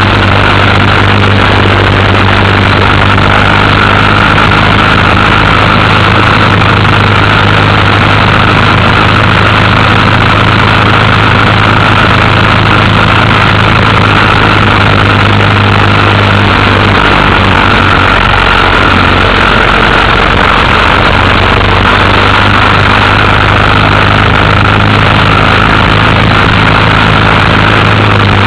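Motorcycle engine running at a steady, even speed while riding, loud and unchanging throughout.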